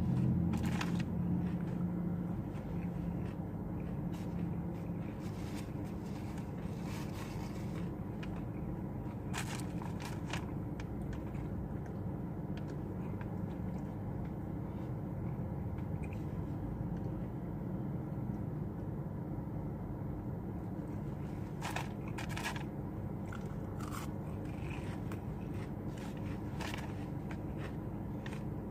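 Close-up eating sounds: scattered bites and crunches of fast food with chewing, over a steady low hum.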